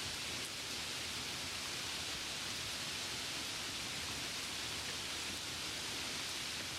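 Steady rain ambience: an even, unbroken hiss of falling rain with no separate drops or gusts standing out.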